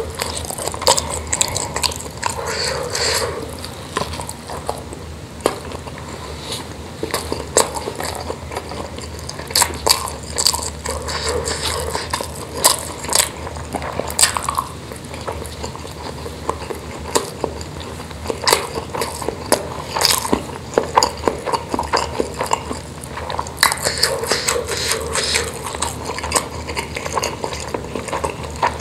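Close-up wet chewing and lip-smacking of spicy meatballs in chili sauce and rice, with many short sharp mouth clicks, and now and then fingers scraping rice on a stainless-steel tray.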